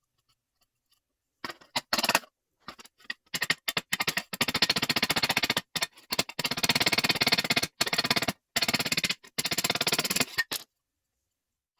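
MIG welder laying short welds on sheet-metal bodywork, fixing a new steel patch plate into a rust-repaired panel: a rapid crackle that starts and stops in a dozen or so bursts of varying length, the longest two or three seconds.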